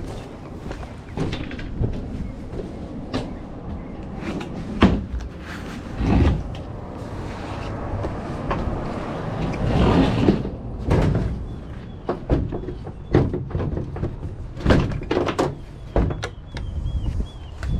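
A run of irregular knocks and clunks, like doors or hard objects being shut and handled, with a bird chirping faintly near the end.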